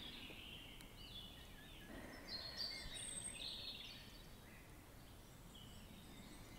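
Faint birdsong: scattered short chirps and quick whistled glides from several birds, busiest between about two and three and a half seconds in, over a soft background hiss.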